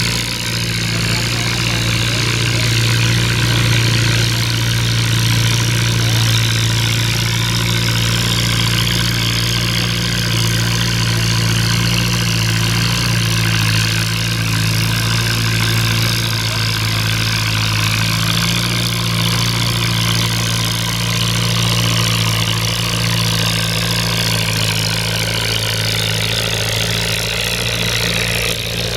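Antique farm tractor engine running steadily at an even, low pitch, with no big revs or breaks.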